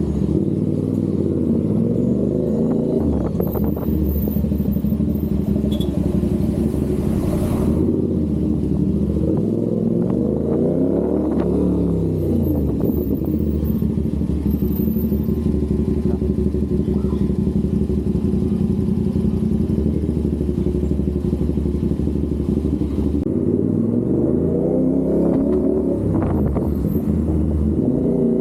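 CFMOTO 450SR motorcycle's parallel-twin engine running under way, its pitch holding steady for long stretches. The revs climb and then drop back twice, about eleven seconds in and again near the end.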